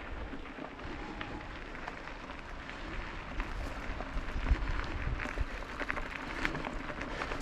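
Fat-tyre bike ride on a forest trail: tyres crunching over dirt and debris with many small clicks and rattles, and low wind rumble on the microphone.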